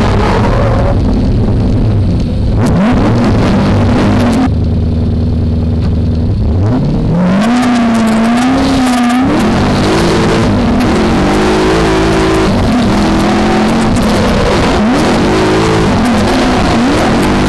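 V8 engine of a BMW E30 drift car heard on board, revving and dropping under throttle while drifting. The pitch rises steeply about seven seconds in and then swings up and down repeatedly, with a loud rushing noise over it.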